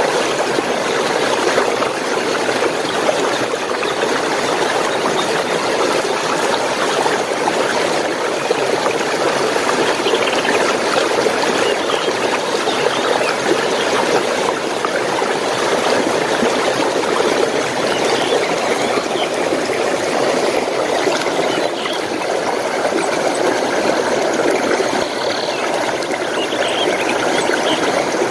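Stream water flowing steadily, with a few faint bird chirps now and then.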